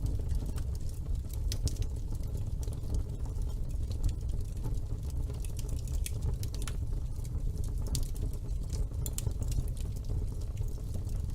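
Wood fire burning in a fireplace, with irregular sharp crackles and pops, several a second, over a steady low rumble.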